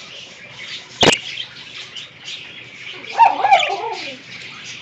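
Budgerigars chattering, a thin high twitter throughout. There is a sharp click about a second in and a louder wavering cry that falls in pitch a little after three seconds.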